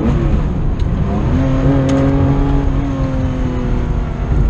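Rally car engine heard from inside the cockpit: the revs drop as the car slows for a bend, then pick up again about a second in and hold steady under throttle. A couple of short clicks sound over it.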